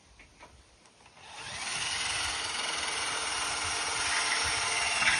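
Power drill starting about a second in and then running steadily.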